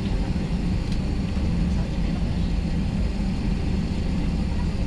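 Steady low rumble of an Airbus A320-232's IAE V2500 turbofan engines and airflow, heard inside the passenger cabin.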